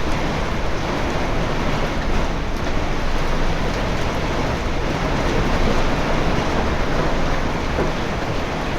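Heavy rain and strong storm wind beating on a moored sailboat, a steady dense hiss with a low rumble underneath.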